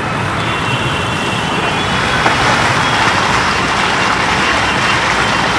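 Floodwater rushing strongly along a road, a loud steady rush.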